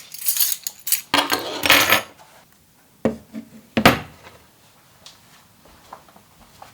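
Household handling noises: about two seconds of rustling and scraping, then two sharp knocks, like objects being set down.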